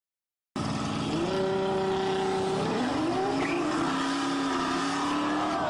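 Nissan GT-R's engine accelerating hard down a drag strip, starting suddenly about half a second in. Its steady high note drops in pitch about three seconds in, as at an upshift, then climbs again.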